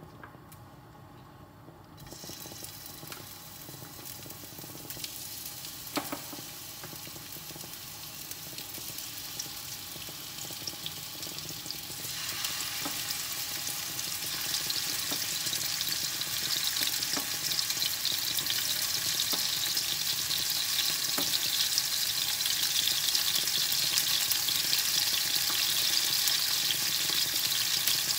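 Beef koftas sizzling as they are laid one after another into hot olive oil in a frying pan. The sizzle starts about two seconds in and grows louder in steps as more koftas go in, with a few light knocks of meat and utensils against the pan.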